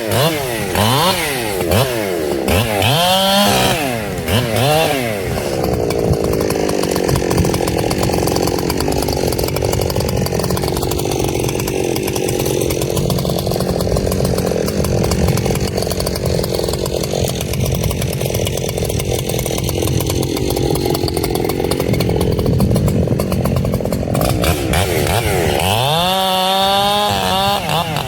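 Echo CS-7310 two-stroke chainsaw revving up and down several times, then held under load in a long steady cut through wood at a lower pitch. It revs up again near the end.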